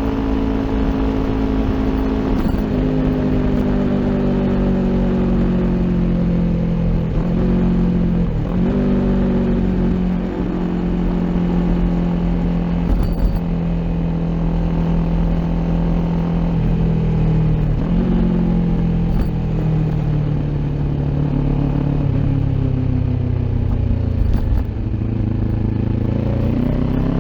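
Kawasaki Ninja 400's parallel-twin engine through an Akrapovic aftermarket exhaust, under way on the road. The engine note sinks slowly for the first ten seconds or so as the bike slows, holds fairly steady with a few step changes in pitch, then climbs sharply near the end as it accelerates, with a low rumble underneath.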